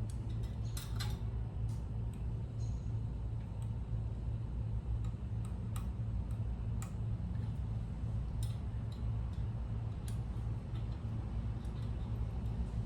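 Scattered light clicks and ticks of small engine parts and hand tools being handled while fitting a carburetor, over a steady low background hum.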